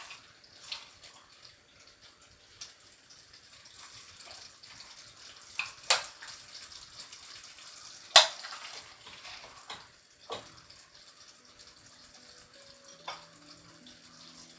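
A few sharp clinks and knocks from kitchen utensils, the loudest about 6 and 8 seconds in, over a faint hiss. Soft music comes in near the end.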